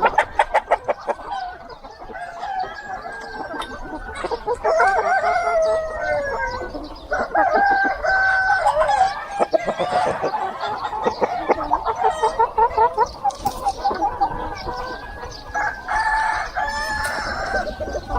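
Farm chickens: roosters crowing several times, the crows overlapping, with quick clucking between them.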